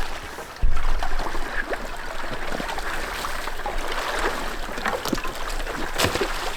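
A small boat being pushed through ice-choked water: water sloshing and trickling, with thin ice cracking and clinking against the hull in many small clicks.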